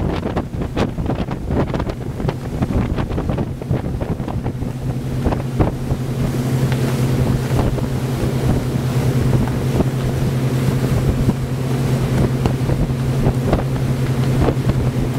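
Motor cruiser's engine drone while underway, a steady hum that becomes clearer and stronger a couple of seconds in, with wind buffeting the microphone and scattered short knocks.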